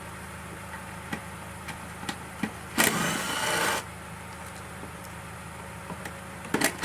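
A cordless power driver whirs twice, about a second each time, as it spins out the bolts holding the mower's engine shield. There are a few light clicks of tools and hardware in between.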